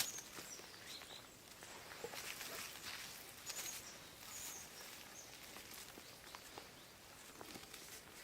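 Faint forest ambience: a few short high bird chirps over rustling and scattered light clicks.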